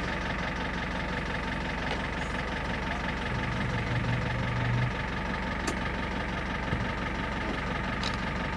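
Safari truck's engine running steadily at low revs, an even drone. A brief low hum joins in for about a second and a half, about three seconds in.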